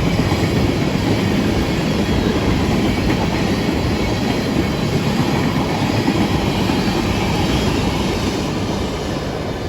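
Train rolling past, a loud steady rumble of wheels on track that begins to fade about eight seconds in as it moves away.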